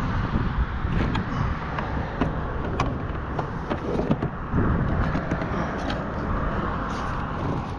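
Strong gusty wind rumbling and rushing on the microphone, with a few light knocks now and then.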